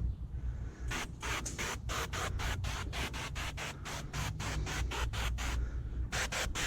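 A rapid series of short rubbing or scrubbing strokes, about four or five a second, stopping briefly and then starting again near the end.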